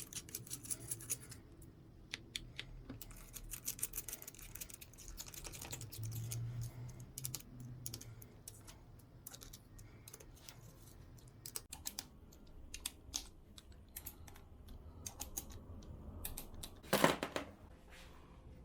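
Faint irregular clicking and light metallic scraping of hand tools working the clutch-cover screws of a Yamaha 125 YZ engine, run down just into contact. A louder single clack about 17 seconds in.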